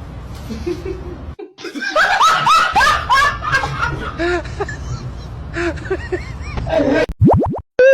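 People laughing in quick, high-pitched bursts, followed near the end by a few quick rising sweeps.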